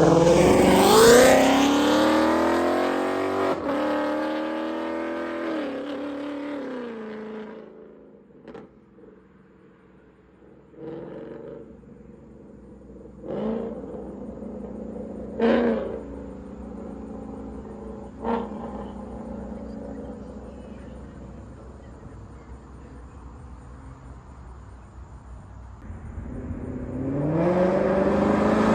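Ford Mustang GT's 5.0 V8, with catless long-tube headers and a Ford Performance Borla cat-back exhaust, accelerating hard. Its pitch climbs and drops back at gear changes, then the sound fades into the distance. A few short, distant revs follow, and near the end the engine grows loud again as it accelerates back toward the listener.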